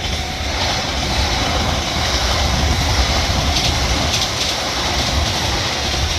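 A JR Hokkaido train passing close by over a level crossing: a loud, steady rumble of wheels on rail, with sharp clicks now and then.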